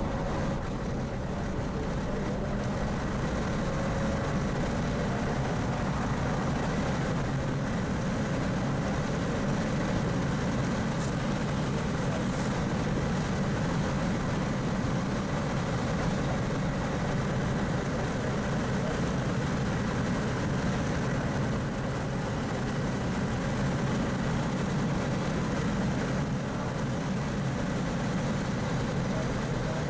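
Mazda RX-8's twin-rotor rotary engine running at speed on track, a steady drone mixed with road and wind noise, heard from inside the cabin.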